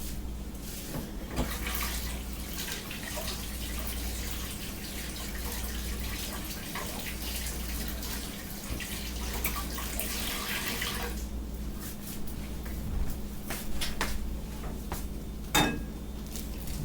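Water running from a kitchen tap for about ten seconds, then stopping, followed by a few clicks and knocks, with a steady low hum underneath.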